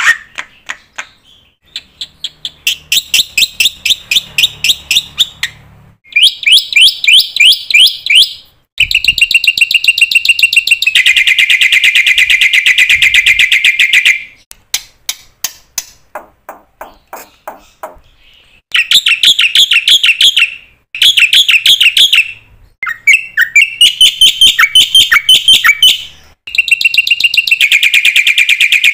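A bird calling loudly in runs of rapid, evenly repeated chirps and trills, each run lasting a few seconds, with short pauses between.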